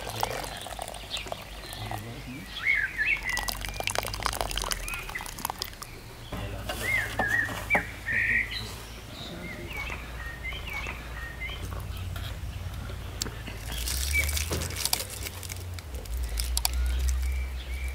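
Small birds chirping and singing in short, curling whistled phrases, on and off.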